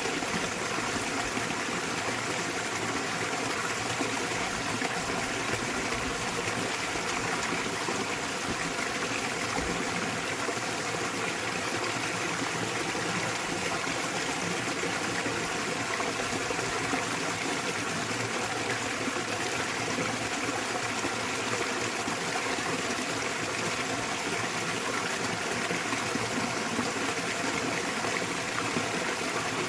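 Small waterfall splashing into a valley stream, the water running in a steady, unbroken rush.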